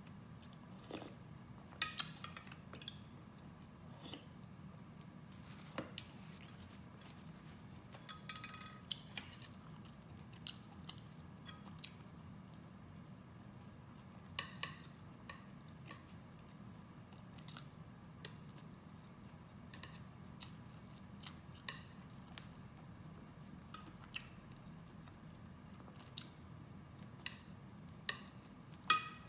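A person eating close to the microphone: soft chewing and mouth smacks with scattered short clicks, and a couple of louder clicks near the end.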